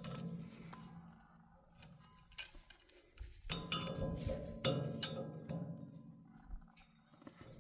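Metal parts clinking and knocking against each other, several sharp strikes with a brief metallic ring, the loudest about four to five seconds in, over a low steady hum.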